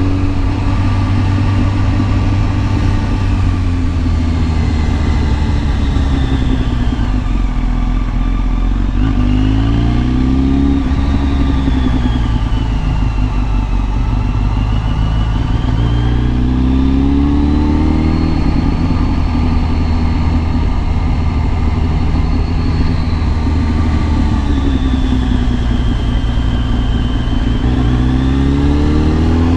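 Kawasaki ZX10R's inline-four engine running steadily under way, its revs rising briefly a few times.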